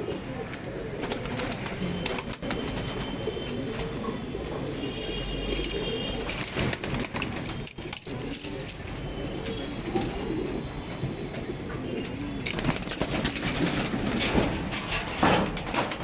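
Saharanpuri pigeons cooing in low, wavering calls over a background hiss, which grows louder and noisier about twelve seconds in.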